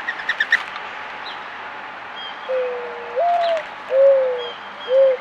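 Male mourning dove cooing its song: a long, low first coo that slides up in pitch partway through, followed by two shorter coos. A quick series of faint high chirps comes at the very start.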